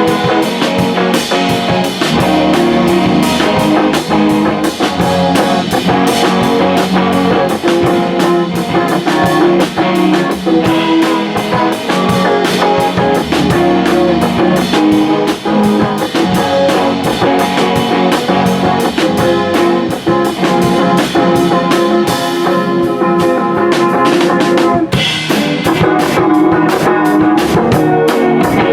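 A rock band playing: guitar over a drum kit keeping a steady beat.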